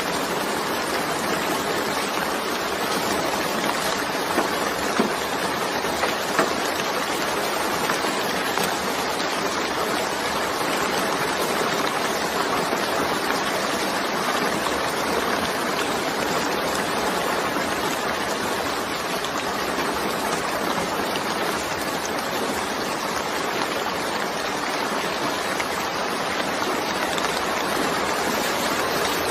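Steady rain falling, an even hiss with occasional faint drop patters standing out, a few of them a little way in.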